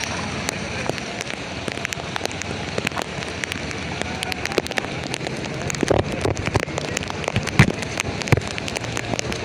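Heavy rain falling: a steady hiss with many sharp, close drop impacts crackling through it, a few louder hits near the end.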